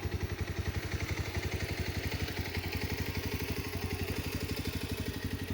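A small engine running steadily, with a rapid, even chugging.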